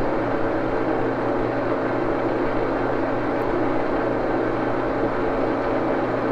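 Axelson engine lathe running steadily at slow spindle speed while a 3/8-24 tap is fed into the workpiece: an even mechanical hum with a few steady whining tones from the drive.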